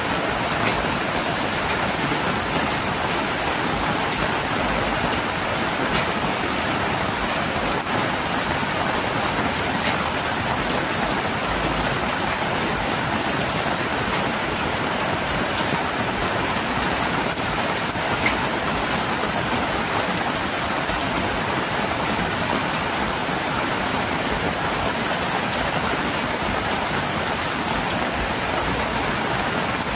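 Steady rain falling on a wet concrete lane and the roofs and awnings beside it, an even unbroken hiss.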